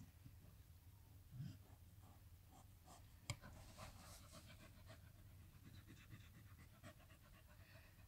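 Springer spaniel bitch in labour panting faintly in quick, even breaths. A single sharp click cuts in about three seconds in.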